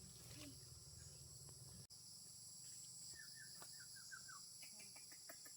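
Faint steady high-pitched drone of insects, with a quick run of about seven short falling chirps from a bird around the middle. The sound briefly cuts out about two seconds in.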